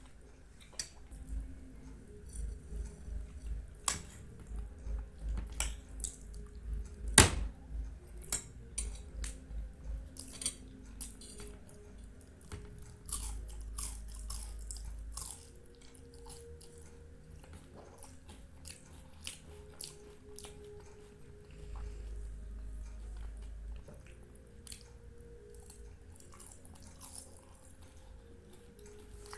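A person eating syrupy Indian sweets: wet chewing and mouth clicks, with one sharp tap about seven seconds in.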